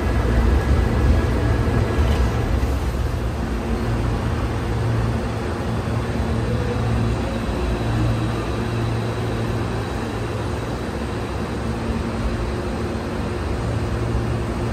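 Hankyu electric train running, a steady low rumble that swells and eases a little.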